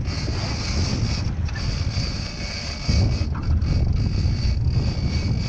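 Wind buffeting the microphone over the steady running noise of a sport-fishing boat at sea, with the low rumble growing louder about three seconds in.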